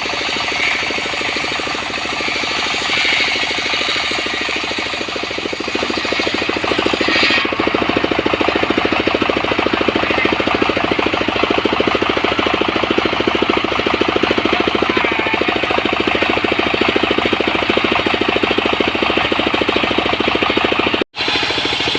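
Engine of a portable sawmill running steadily with a fast, even pulse. It cuts out for an instant near the end.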